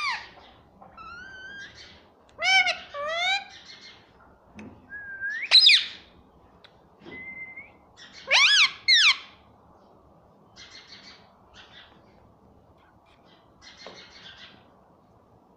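A pet parrot whistling and calling: a string of sliding whistles, some rising and some arching up and down, with a quick run of notes early on. The loudest is a sharp rising whistle about a third of the way in, followed by a double arched whistle. Fainter raspy chirps come near the end.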